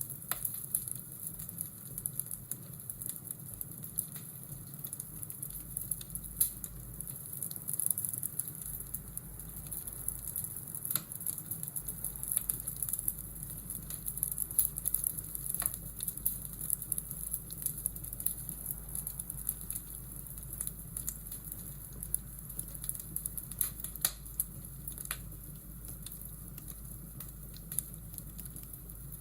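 Fireplace and rain ambience: a steady hiss with frequent sharp, irregular crackles and pops of burning logs.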